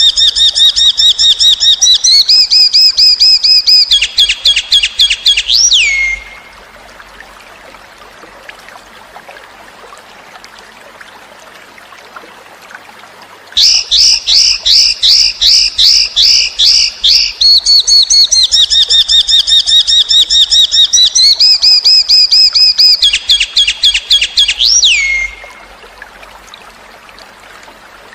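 A cucak cungkok songbird singing in two long bouts of very rapid, high repeated notes that shift in steps between pitch levels, each bout ending in a single swooping note. In the pause of several seconds between the bouts, faint trickling water.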